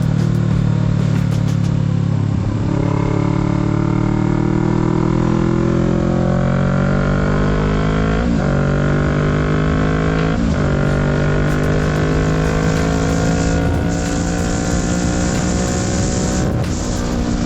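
Kawasaki Z650's parallel-twin engine on the move, its note climbing steadily as the bike accelerates from about two seconds in, with two short breaks in the note about eight and ten seconds in, then holding a fairly steady pitch.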